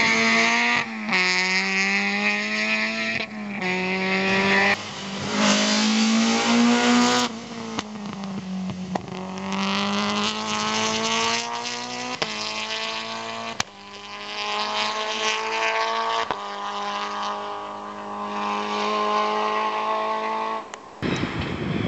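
Rally car engines accelerating hard, their pitch rising and dropping again and again with quick gear changes, with some tire squeal.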